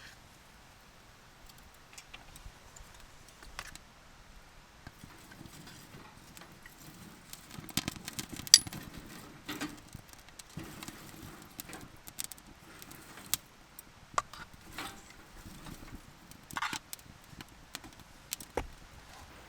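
Camp gear being handled: scattered clinks, taps and knocks with some rustling, the loudest a sharp metallic clink with a brief ring about eight and a half seconds in.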